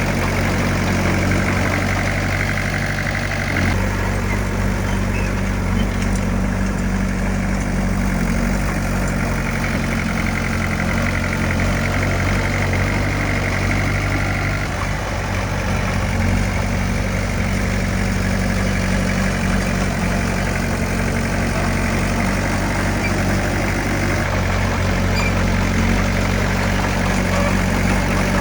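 Diesel engine of heavy earthmoving equipment running steadily, its note shifting slightly about four seconds in and again around the middle.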